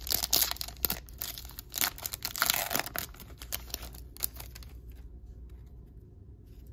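Foil wrapper of a 2020 Topps Chrome baseball card pack being torn open and crinkled by hand, a dense crackle with sharp snaps that dies away after about four seconds.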